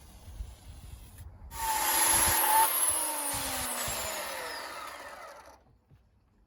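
Chainsaw running a thin Panther Cub bar and chain: it revs up suddenly about a second and a half in, holds briefly, then its pitch falls steadily as it winds down, dying away before the end.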